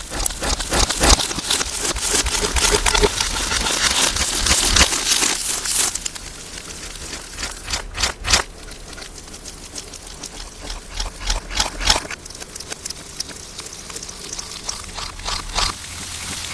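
Slime being squished and worked by hand, a dense run of wet crackling and popping clicks for about six seconds that then thins out to scattered pops, the audio distorted.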